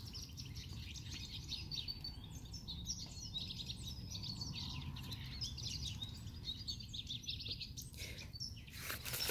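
Small birds twittering in the background: a quick run of high chirps through most of the stretch, over a steady low rumble of ambient noise.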